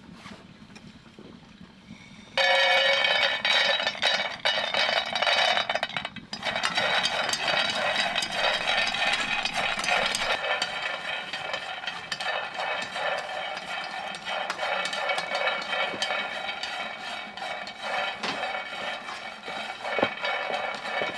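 Peanuts being dry-roasted: the shelled nuts rattle and clatter as they are stirred around a pan. The clatter starts suddenly about two seconds in and keeps up in a dense run of small clicks.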